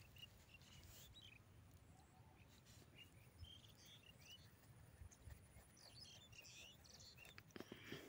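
Near silence, with faint scattered bird chirps in the background and a few light clicks near the end.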